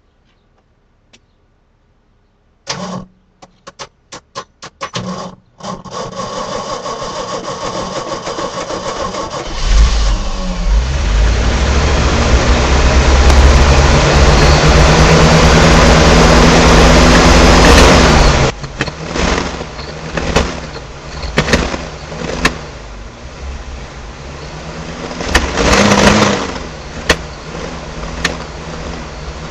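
A 1970 Chevy K5 Blazer engine being cold-started after sitting a long time: a few short stabs of the starter, then steady cranking until it catches about ten seconds in and runs at high revs. About eight seconds later it drops to a rough, uneven run with repeated blips of the throttle.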